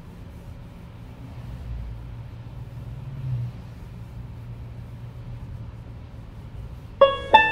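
Steady low rumble of tyres and road noise heard inside a Tesla electric car travelling at freeway speed on a wet road, swelling briefly about three seconds in. Near the end, plucked banjo and piano music starts.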